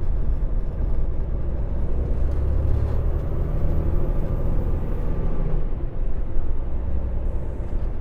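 Semi-truck diesel engine running, heard from inside the cab as the truck pulls away; its low rumble grows stronger for a few seconds in the middle, then eases back.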